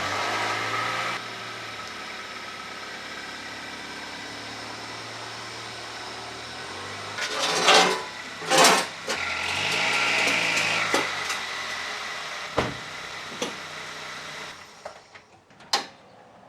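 Toyota Corolla's 1ZZ-FE 1.8-litre four-cylinder engine running just after start-up, a little louder for the first second and then settling to a steady idle. A few sharp knocks and a brief change in engine pitch come about halfway through, and the engine sound drops away near the end.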